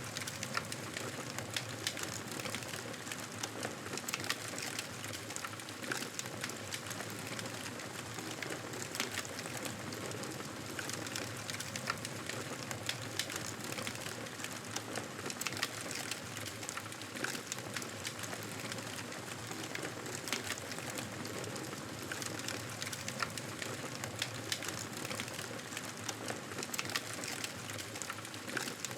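Fire crackling: a steady hiss with frequent sharp pops and snaps scattered throughout.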